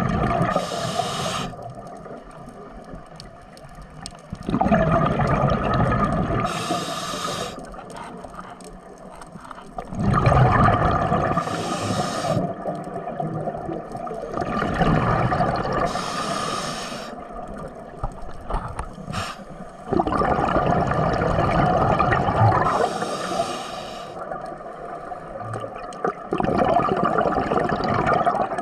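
Ocean water surging and draining in repeated rushes, about every five to six seconds, with gurgling and short bursts of hissing spray between surges.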